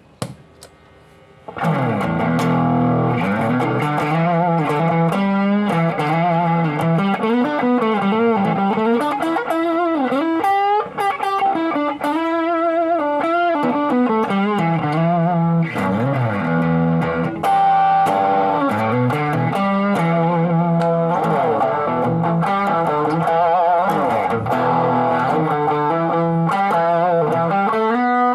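Electric guitar played through a RAT-clone distortion pedal: a continuous distorted riff with changing notes. It starts about a second and a half in, after a short click.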